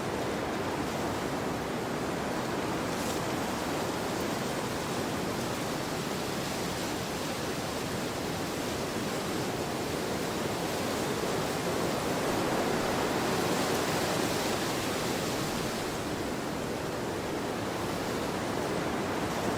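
Wind blowing across a field: a steady rushing noise that swells a little about two-thirds of the way through.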